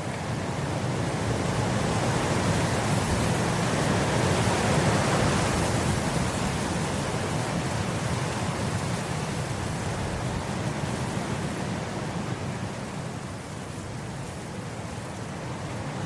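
Wind blowing across grass: a steady rushing that swells in a gust about four or five seconds in, then slowly eases.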